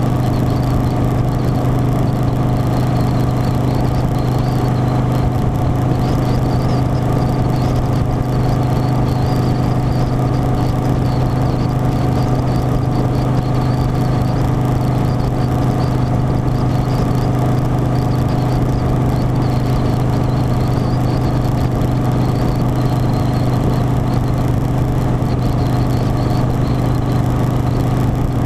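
Harley-Davidson Softail Standard's V-twin engine running at a steady, unchanging speed on the road, with a faint high whine wavering above it.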